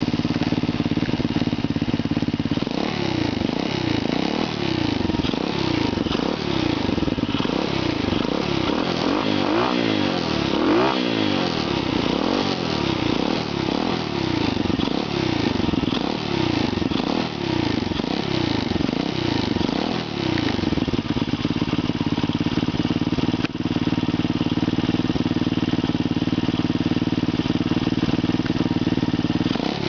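125cc dirt bike engine running, with the throttle blipped over and over in quick rising-and-falling revs, about one to two a second, and a bigger rev around ten seconds in. For the last third it holds a steady idle.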